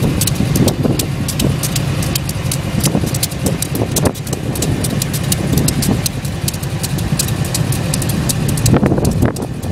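Two GE B39-8E diesel-electric locomotives idling together, their V16 diesel engines giving a steady low rumble, with frequent sharp clicks over it.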